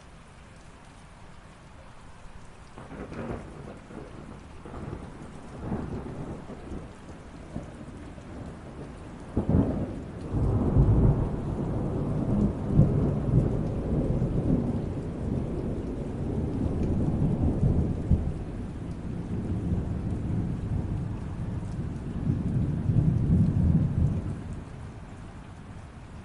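Thunder rolling over steady light rain: scattered low rumbles build, then a sharper clap about nine and a half seconds in sets off a long, loud low rumble that dies away near the end.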